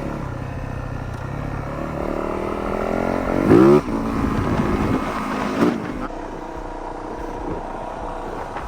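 Yamaha YZ450F's single-cylinder four-stroke engine being ridden: running steadily, then revving up with rising pitch to a loud peak about three and a half seconds in, and dropping back. After about six seconds the engine fades under a rushing noise.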